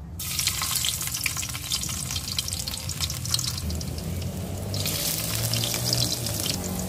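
Garlic cloves dropped into hot oil in a wok start sizzling and crackling at once. The sizzle eases a little about four seconds in, then picks up again as ginger pieces fry with the garlic.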